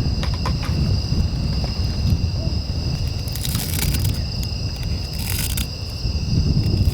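Steady low rush of seaside wind and surf, with insects trilling steadily at a high pitch and a few faint clicks.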